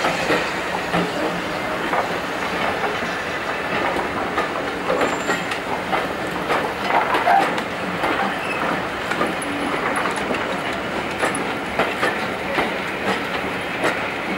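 Railway passenger coaches rolling past close by: steady wheel-on-rail noise with many quick clicks and clacks as the wheels run over the rail joints.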